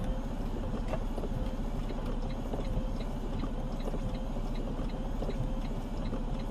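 Semi truck's diesel engine running steadily under way, a low rumble with a slightly wavering whine above it.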